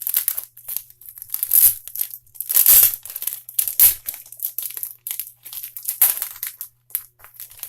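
Packaging around a bundle of posters being crinkled, crushed and torn open by hand: a run of irregular rustling crunches, loudest around the middle.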